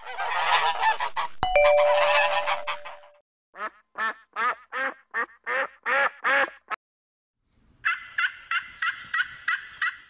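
Geese honking: a dense chorus of many honks at first, then a run of separate honks about two or three a second. A bell-like ding rings out about a second and a half in, and a faster, higher run of calls begins near the end.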